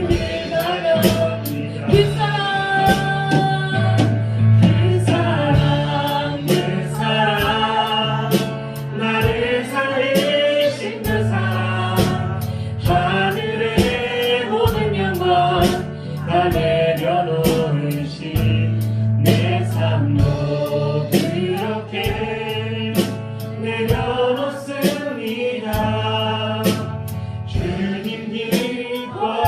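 Contemporary Christian worship music played by a church praise band: a singing melody over bass and a steady drum beat.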